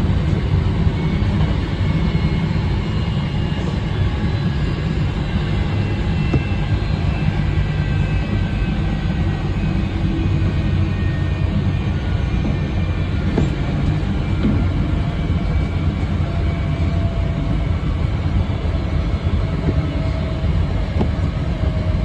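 Hankyu electric train running along the line, heard from inside the front car: a steady, loud rumble with faint high tones that drift slightly in pitch.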